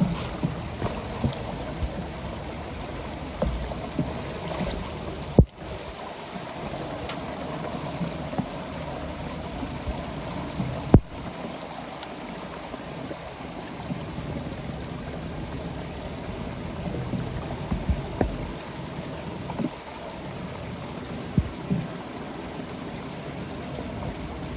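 Floodwater running steadily into a street drain, with scattered clicks and knocks and two sharp cracks.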